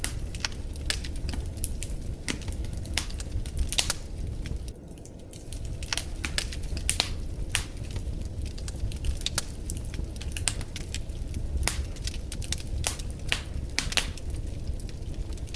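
Wood fire in a fireplace crackling: frequent sharp pops and snaps over a steady low rumble of the flames, with a brief lull about five seconds in.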